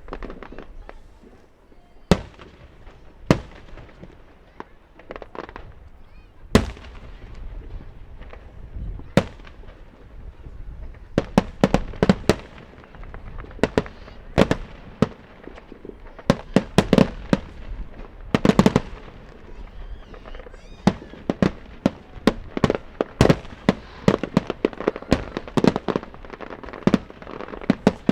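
Aerial fireworks display: sharp bangs echoing off the surroundings, a few seconds apart at first, then from about a third of the way in coming in quick, dense volleys, as in a finale.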